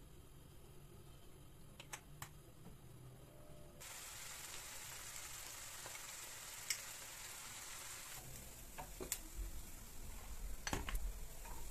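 Food sizzling in a pan: a steady frying hiss that starts suddenly about four seconds in, with a few sharp clicks of a utensil against the pan.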